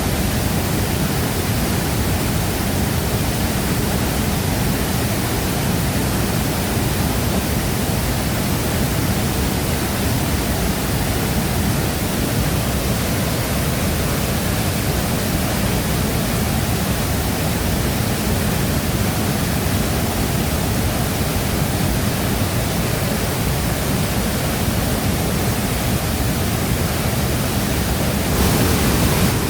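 Shifen Waterfall's water falling and crashing into its plunge pool: a steady, dense rush, heaviest in the low range, turning slightly brighter about a second before the end.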